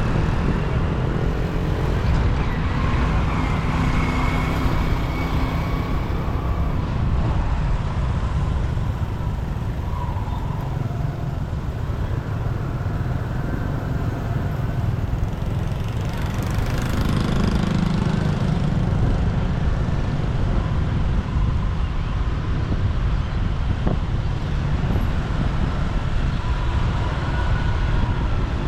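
Motorbike engine and city traffic heard on the move: a steady low rumble of engines and road noise, with a louder vehicle swelling briefly a little past the middle.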